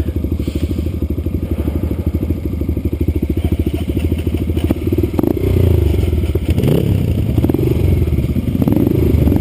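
Yamaha XTZ motorcycle engine running at low revs with even firing pulses, then louder and revving up and down from about five seconds in, with some clatter and scraping.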